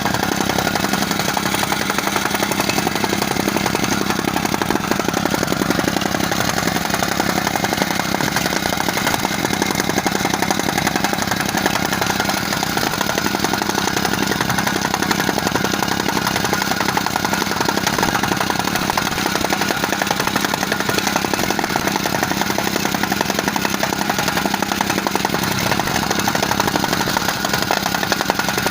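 Jumping compactor (rammer) with its EH092F petrol engine running steadily, with a fast, even clatter.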